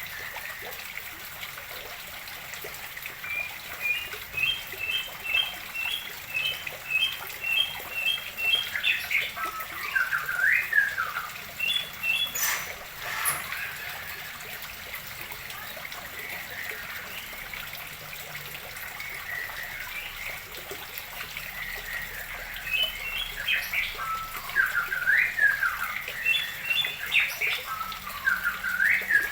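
Songbirds singing in quick runs of repeated chirps, in two spells with a quieter stretch between, over a steady trickle of water running into a fish pond as it refills. A single sharp tap sounds about twelve seconds in.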